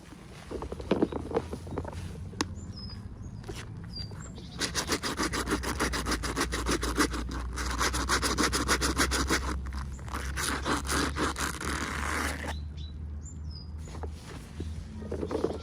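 Packaging being worked open by hand: scattered scratches at first, then a rapid, rasping scrape that runs for about eight seconds from around a third of the way in.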